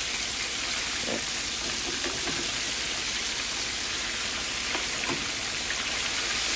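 Pieces of king fish frying in a pot of hot oil: a steady sizzle, with a few faint crackles.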